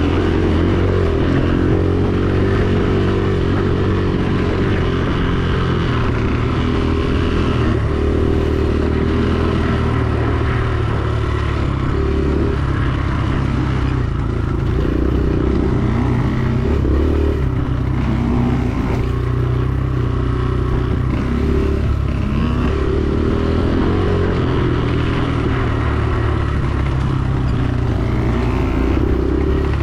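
Dirt bike engine running while riding, its pitch repeatedly rising and falling.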